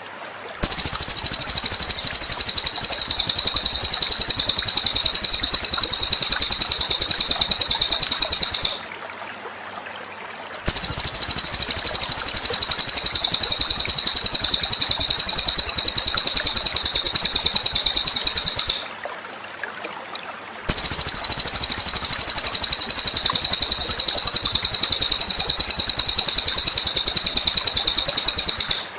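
Small songbird singing a dense, rapid high trill without a break for about eight seconds, then stopping for two. The same bout repeats three times, a looped masteran recording played for captive birds to learn. A low hiss fills the pauses.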